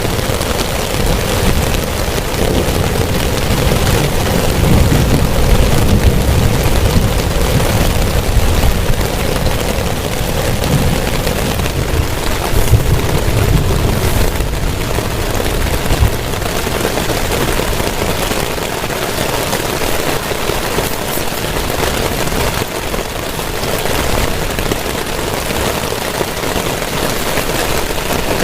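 Heavy rain pouring steadily. A deep low rumble runs underneath, strongest through the first half and easing off after about sixteen seconds.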